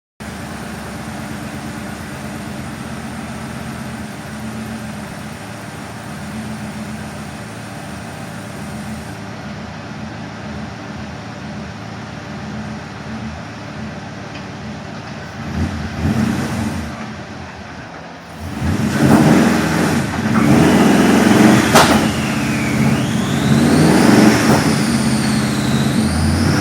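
The twin-turbocharged 4.6 L V8 of a 1996 Mustang GT runs steadily for about fifteen seconds. It is then revved hard in repeated surges, and a high whine rises and falls with them.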